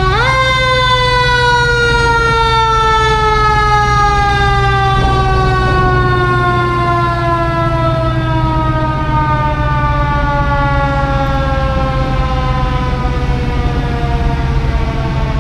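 Mechanical fire-truck siren, revved up sharply at the start and then winding down in one long, slowly falling wail, over a steady low engine rumble.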